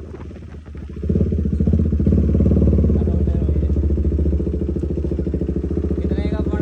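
KTM motorcycle engine running through a newly fitted loud aftermarket exhaust, a steady fast pulsing; it grows louder about a second in and then holds steady.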